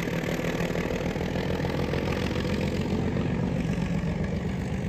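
A vehicle engine running steadily with a constant low drone and a hiss over it.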